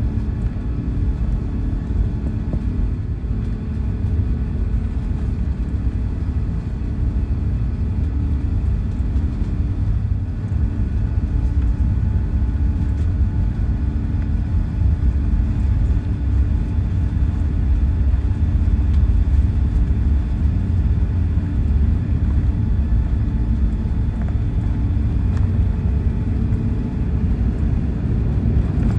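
Airbus A380 cabin noise: the steady low rumble of the engines and airflow, with a few faint steady tones above it, growing slightly louder over the stretch.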